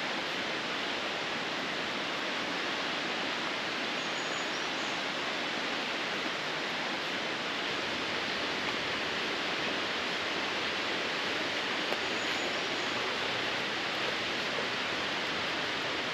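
Steady rush of falling water from a mountain creek cascade or waterfall, an even hiss with no change in level.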